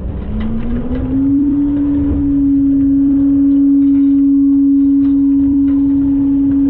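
Front-load garbage truck's engine and hydraulic pump speeding up over about the first second and a half, then holding a steady whine over a low rumble, as the truck's hydraulics are run.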